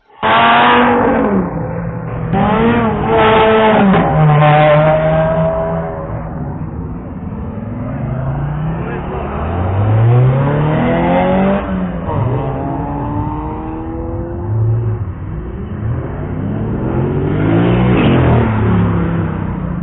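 Sports car engines revving: several quick throttle blips in the first few seconds, then longer runs of rising revs as the cars accelerate, with pitch climbing and dropping between gears.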